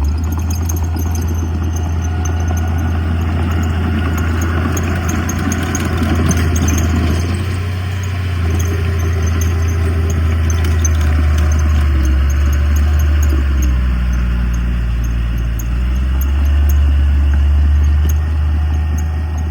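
Heavy diesel engine of earthmoving machinery running steadily with a deep, continuous drone, and light metallic clinking through the first half.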